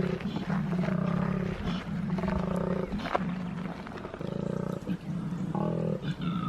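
Male koala bellowing: long runs of low, rasping, snore-like pulses, broken by short pauses for breath.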